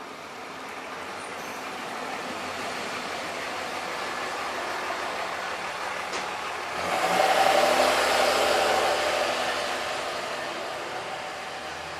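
A road vehicle passing by: its noise builds slowly, is loudest about seven seconds in, then fades away.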